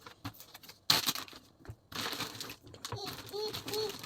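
Plastic bags crinkling and rustling as they are handled, in bursts; near the end a small child vocalizes with a few short high-pitched sounds.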